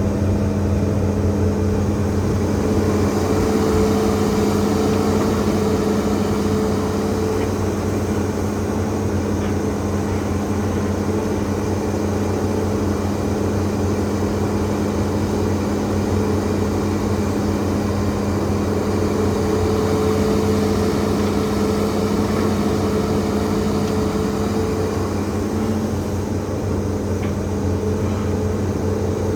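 Hitachi ZAXIS200 hydraulic excavator's diesel engine running at a steady, unchanging pitch, with a rushing hiss over it.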